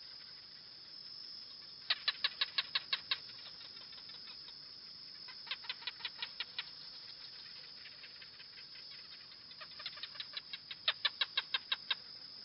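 Gecko chirping: three runs of rapid, sharp clicking chirps, about eight a second, the last run the longest, over a steady high-pitched hum.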